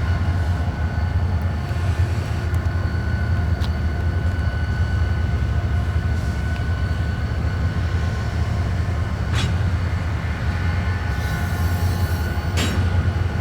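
Diesel locomotives running with a steady low rumble and a faint steady whine above it, with a couple of sharp knocks late on.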